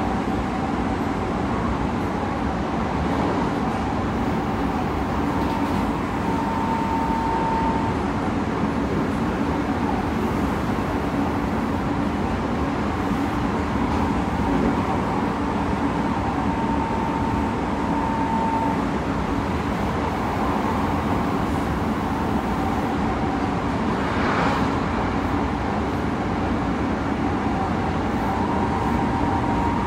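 Running noise of an Odakyu 3000 series electric train heard inside the passenger car: a steady rumble of wheels on rail and running gear, with a higher whine that comes and goes a few times. A brief hiss about three-quarters of the way through.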